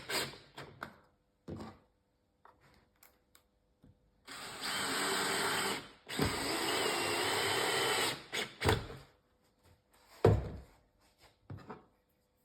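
A small handheld power tool runs in two steady bursts of about two seconds each, working wood. It is followed by three sharp knocks, the loudest about two-thirds of the way through.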